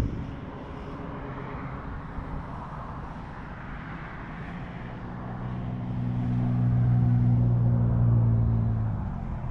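Low, steady engine drone of a passing motor vehicle or aircraft, growing louder from about halfway through and fading near the end.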